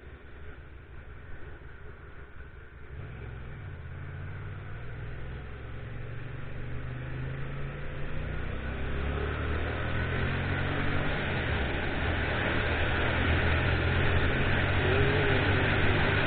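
Motorcycle engine pulling away and gathering speed, with wind and road noise building steadily as it goes faster.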